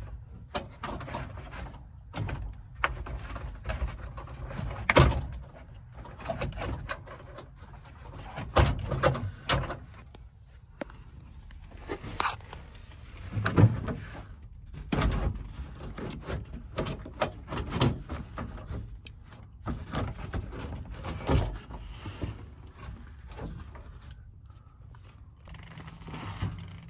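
Irregular knocks, clunks and scrapes of hands and tools working on a car's interior trim and seats, with several sharper thumps of parts being pulled or set down.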